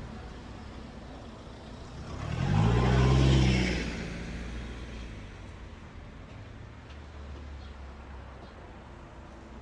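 Steady low road-traffic rumble, with one motor vehicle passing close by from about two to four seconds in, its engine note rising and then falling as it goes past.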